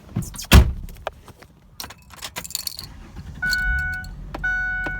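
Getting into a 2005 Ford Explorer Sport Trac: a loud thump about half a second in, then keys jangling. From past the middle, the cabin's warning chime sounds as a steady tone in roughly one-second pulses with short gaps.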